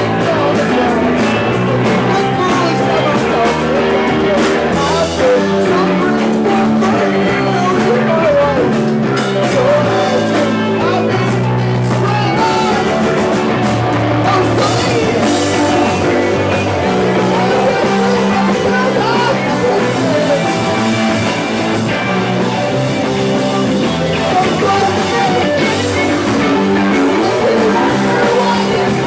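Live rock song: guitar-driven music with singing, playing steadily throughout.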